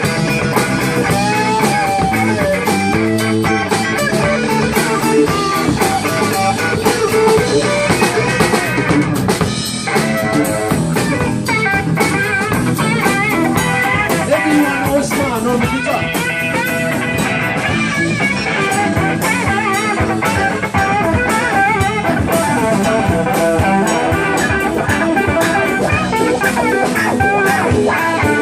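Blues band playing live: guitar lines over a drum kit, an instrumental passage without vocals.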